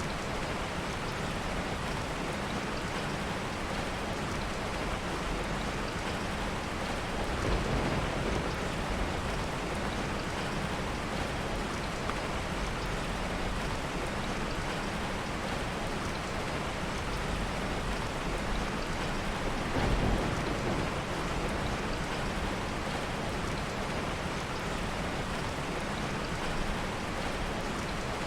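Steady heavy rain, with two soft rolls of distant thunder, one about a quarter of the way in and another about two-thirds in.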